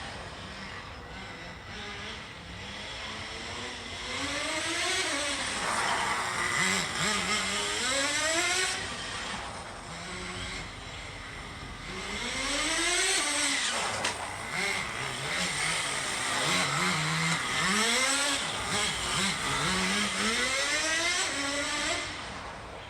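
Small nitro RC car engine running at high revs, its pitch climbing and dropping again and again with throttle bursts as the car accelerates and slows.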